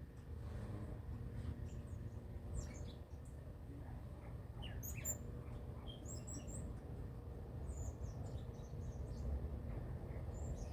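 Birds chirping and calling in short, high notes, scattered irregularly and overlapping at times, over a steady low rumble.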